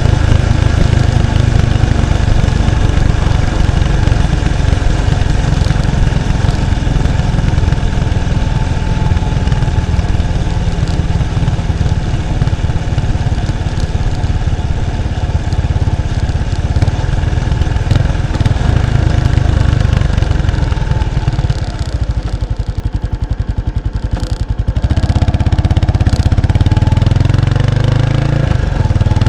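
Exhaust of a 1993 Kawasaki Estrella's 250 cc single-cylinder four-stroke engine through its stock muffler, heard close at the rear of the bike while riding. About three quarters of the way through, the exhaust drops for a few seconds to a quieter, evenly spaced beat, then gets louder again.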